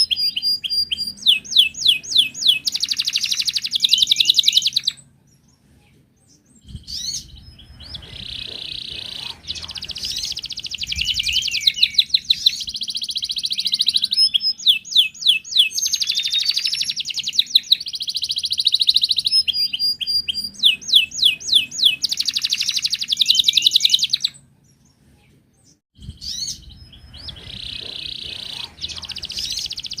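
Wild canary singing long, loud phrases of rapid trills and rolling repeated notes. The song breaks off twice for a second or two of silence, about five seconds in and again near twenty-five seconds.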